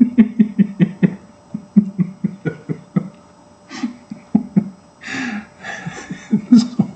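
A man laughing: a run of short, quick 'ha-ha' pulses, about four a second, turning breathier near the end.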